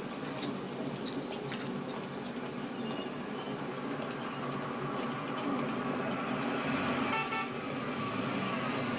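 City street traffic with a car horn honking around two-thirds of the way in.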